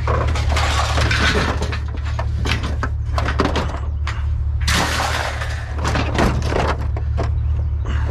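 Mixed light scrap metal being tossed off a pickup bed onto a scrap pile: a continuous, irregular clatter and crash of metal pieces landing, over a steady low hum.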